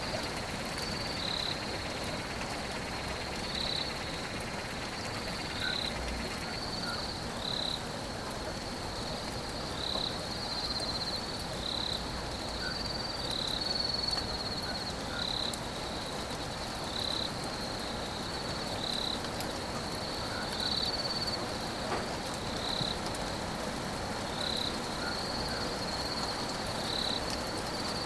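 Steady rain falling, with a high-pitched chirping call repeating about once a second over it.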